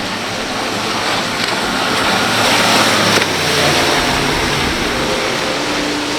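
Motorboat engine running through inlet waves, with rushing water and spray. The rush of water swells to its loudest about halfway through and cuts off suddenly.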